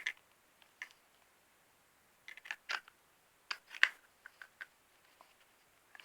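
Scattered sharp clicks and taps of small plastic toy figures being handled and set down, in two small clusters a couple of seconds apart.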